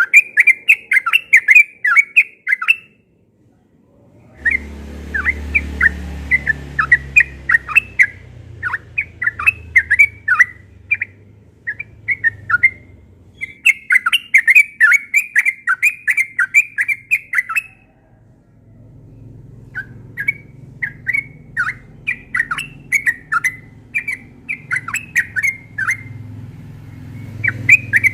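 Yellow-vented bulbul (trucukan) singing in long, fast runs of short chattering notes, with brief pauses about 3 seconds and 18 seconds in. A faint low rumble runs underneath from about 4 seconds on.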